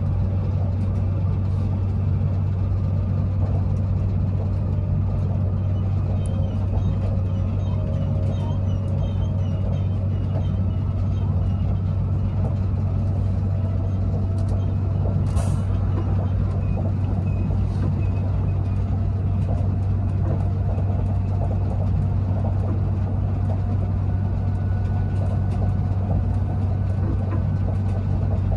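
Passenger train running, heard from inside the passenger car: a steady low rumble and hum from the running gear and wheels on the rails, with a brief hiss about halfway through.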